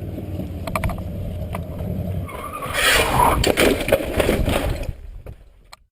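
A vehicle engine running with a low, steady rumble, a few sharp clicks early on, and a louder hissing, rattling stretch from about three to five seconds in, before the sound fades out.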